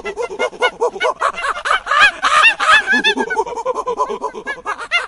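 A flock of birds calling all at once: many short calls overlapping, several a second.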